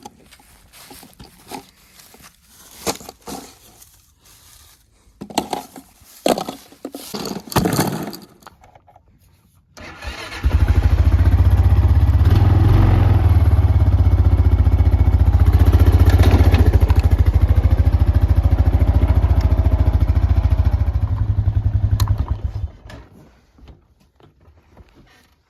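Scattered knocks and rustles for about ten seconds. Then a Honda Foreman 450 ATV's single-cylinder engine starts close by, runs steadily for about twelve seconds, and cuts off.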